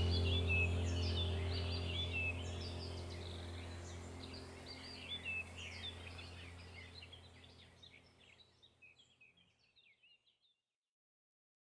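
Many small birds chirping and singing over a low, steady drone, the whole bed fading out slowly to silence about ten seconds in.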